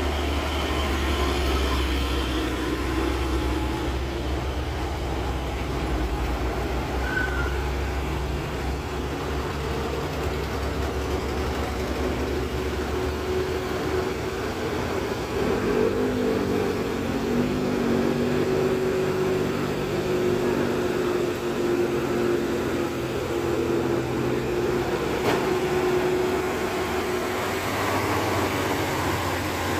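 A large vehicle, most likely a bus, running on the road: a steady engine drone with a constant tone over road rumble. The deep rumble eases off about halfway through.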